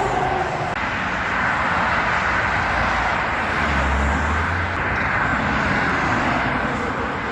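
Steady road traffic noise of passing vehicles: engine and tyre noise, with a low engine drone swelling briefly about four seconds in.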